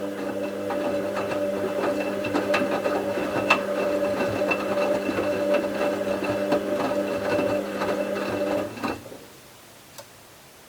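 Bauknecht WA 7778 W washing machine running with a steady hum and light clatter, which stops abruptly about nine seconds in; a single sharp click follows about a second later.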